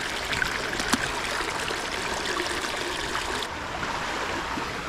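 Small creek running steadily, with a faint tick about a second in.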